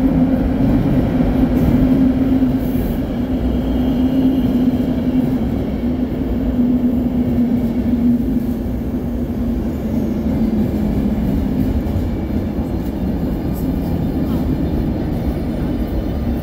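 Electric-hauled passenger train pulling in alongside a station platform: a loud, steady rumble of locomotive and coaches rolling past, with a continuous low hum.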